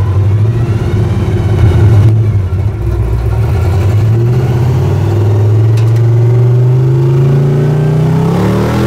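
Hot rod's engine pulling under load while driving, its pitch climbing steadily through the second half as it accelerates.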